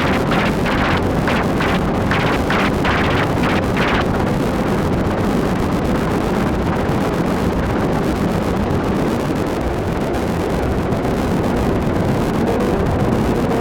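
Noisy synthesizer drone from Make Noise semi-modular synths: a rushing wash of noise. For the first four seconds it carries pulses of brighter noise, about three a second, which then stop and leave the steady wash.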